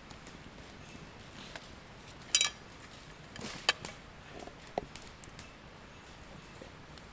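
A few short, sharp clicks and knocks over a low background hiss, the loudest about two and a half seconds in, with smaller ones a second and two seconds later.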